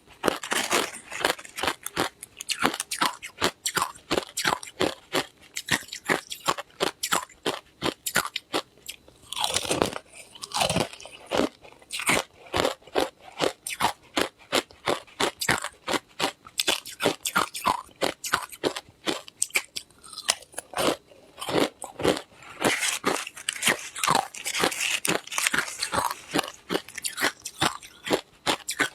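Ice being bitten and chewed close to the microphone: a steady, rapid run of sharp crunches, several a second.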